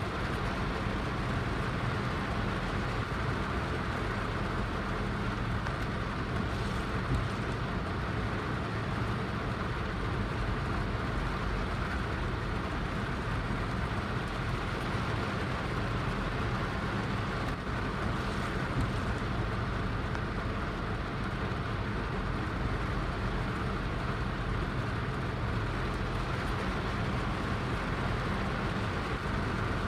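Heavy rain falling steadily, a continuous even rush with a low rumble beneath it.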